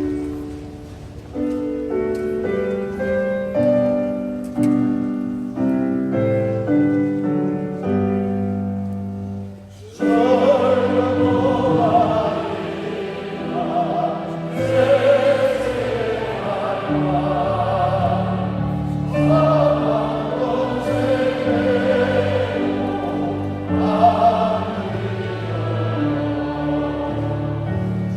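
A keyboard plays the introduction to a hymn. About ten seconds in, a large congregation starts singing the hymn together over the accompaniment.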